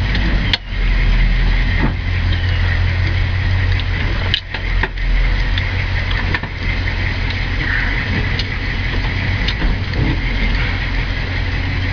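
1970 Chevelle SS V8 engine running at low speed with a steady low rumble as the car sits in or creeps back down a driveway. A couple of brief clicks about half a second and four and a half seconds in.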